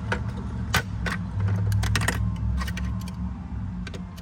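Metal hand tools clicking and clinking irregularly against the ignition coil area of a Ford 5.4 V8 as the coil's hold-down bolt is about to be undone. A steady low hum runs underneath.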